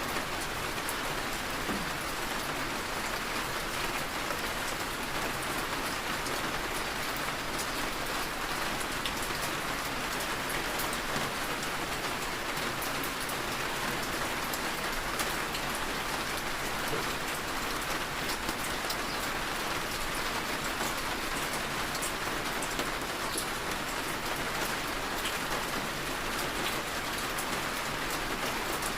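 Heavy rain falling steadily: an even hiss with scattered drops ticking.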